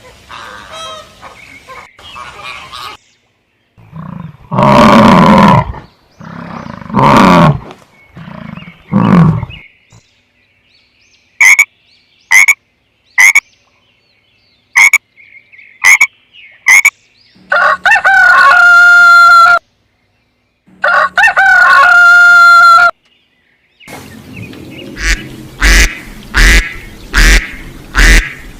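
A series of different animal calls, one kind after another: three loud low calls, then a run of short sharp calls about one every second, two long steady-pitched calls, and finally a quick string of repeated calls.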